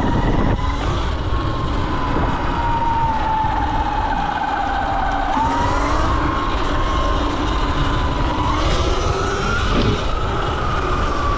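Sur-Ron electric dirt bike under way: the electric motor's high whine, wavering slowly up and down with the throttle, over a steady low rumble.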